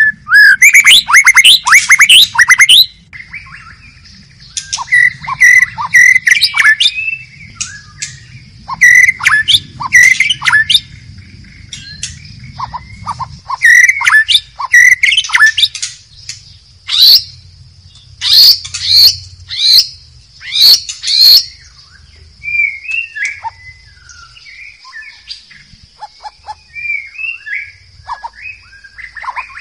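White-rumped shama singing: loud bursts of rich, rapidly varied whistles and sharp notes, turning to softer, quieter warbles about two-thirds of the way through. A steady high-pitched drone runs underneath.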